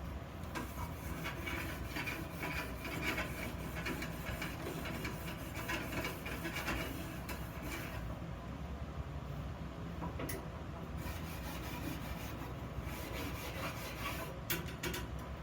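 Hand rubbing and scraping strokes on iron for the first half, uneven in rhythm. Then it goes quieter, with a few sharp clicks or knocks, over a low steady hum.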